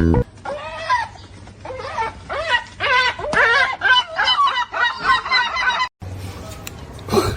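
A quick run of short, pitched animal calls, one after another, that stops suddenly at a cut about six seconds in. After it come a low hum and one short sound near the end.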